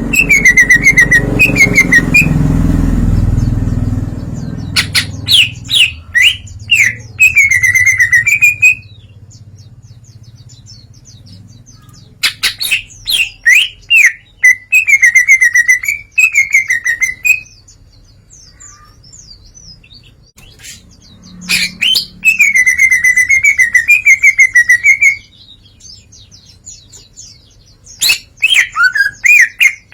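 Green leafbird (cucak ijo) singing loudly in bouts of a few seconds, rapid chattering ticks run into warbling phrases, with short pauses between bouts; the bird is running through its repertoire of learned songs. A low rumble sits under the first few seconds.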